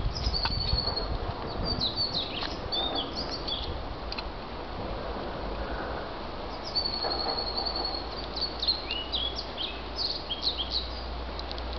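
A songbird singing two song phrases about six seconds apart, each opening with a level, high trill and ending in a run of shorter, lower notes. A steady low rumble runs underneath.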